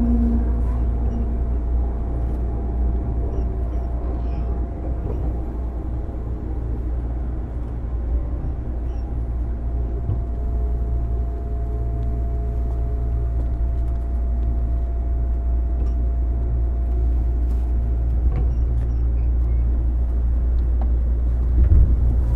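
Onboard running sound of a JR East 205 series motor car with MT61 externally-ventilated traction motors: a steady rumble of wheels and motors with a constant thin whine, and a brief knock near the end.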